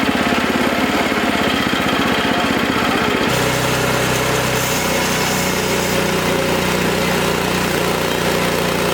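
Wood-Mizer LX25 sawmill's engine running steadily; its sound changes abruptly about three seconds in.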